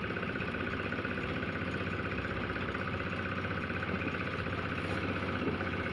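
Small engine of a cement mixer running steadily at an even speed.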